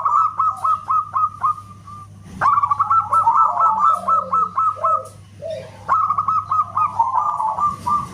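Zebra dove (perkutut) singing in three phrases of rapid staccato cooing notes, each phrase a quick run of repeated short notes. A steady low hum runs underneath.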